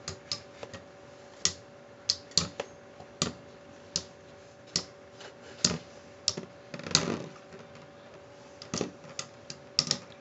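Two spinning Beyblade tops, Power Kraken and Lightning L-Drago, clashing and knocking against the stadium wall: irregular sharp clicks, about two a second, with a longer scraping rattle about seven seconds in.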